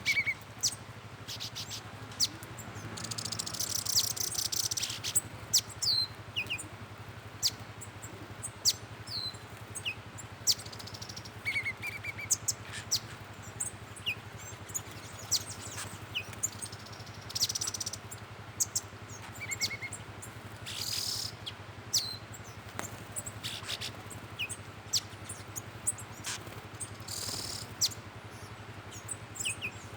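Several Atlantic Forest birds calling: many short, sharp high chirps and brief whistled notes scattered throughout, with a dense burst of rapid high twittering about three to five seconds in. A steady low hum runs underneath.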